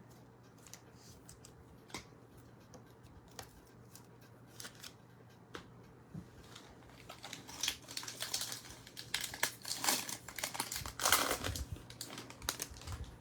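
A foil trading-card pack wrapper being torn open and crinkled. Light clicks and rustles of the cards being handled come first, then denser crinkling and tearing, loudest near the end.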